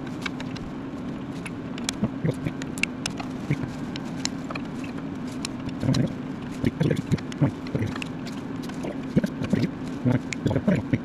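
Irregular sharp clinks and knocks of hand tools working on metal, busier in the second half, over a steady low hum.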